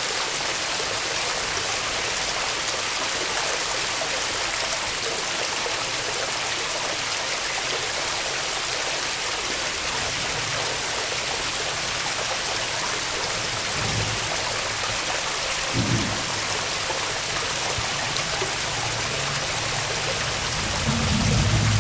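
Waterfall: a steady rush of falling water, with a few low bumps about two-thirds of the way in and near the end.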